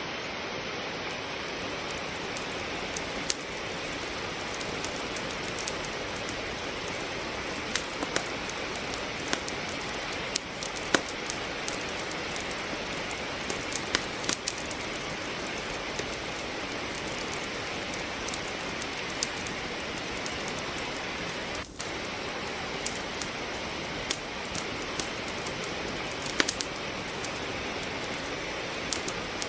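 Steady hiss of rain with irregular sharp pops and crackles of logs burning in a fireplace. The hiss drops out for an instant about two-thirds of the way through.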